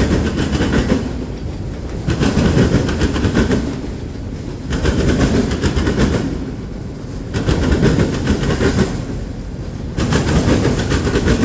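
Train cars rolling past close by, their wheels clicking over rail joints in clusters that swell and fade about every two and a half seconds.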